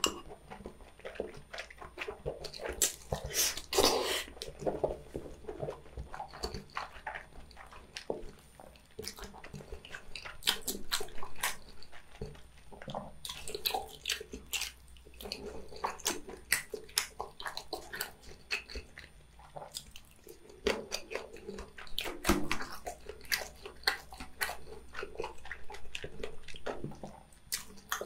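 Close-miked eating sounds: slurping and chewing spicy tteokbokki rice cakes and glass noodles coated in sauce, with many short, irregular wet clicks and squelches from the mouth.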